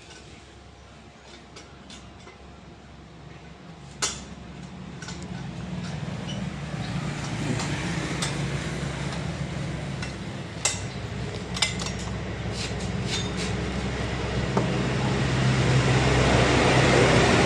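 Road traffic going past a roadside workshop: a heavy vehicle's low engine rumble grows steadily louder and is loudest near the end. A few sharp metallic clinks sound over it.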